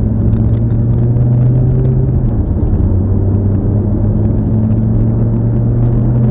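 Lamborghini engine running at steady revs, heard from inside the cabin over road rumble; its pitch drops a little about two seconds in, then holds.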